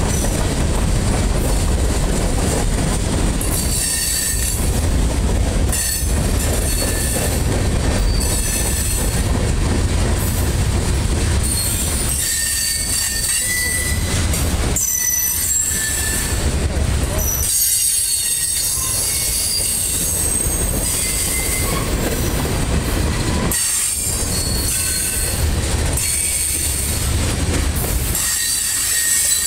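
Freight cars of a passing train rolling over the rails: a steady heavy rumble of wheels, with short high-pitched wheel squeals coming and going throughout.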